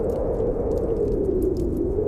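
Snowstorm wind blowing in a steady low howl, with sparse sharp crackles and pops from a wood fire in a fireplace.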